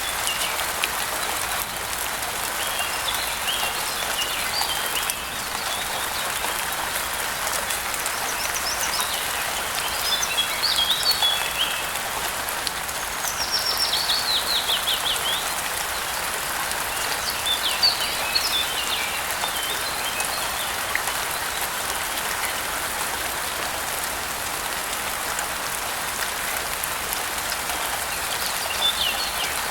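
Steady rain falling, with birds chirping now and then over it, among them a quick run of falling notes about halfway through.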